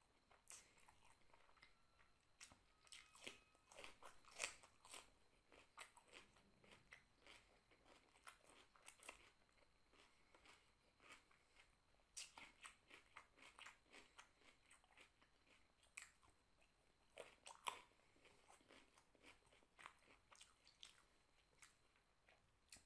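Close-up eating sounds of a person chewing crisp raw cucumber with rice: wet crunching and crackly clicks in clusters, with short pauses between mouthfuls.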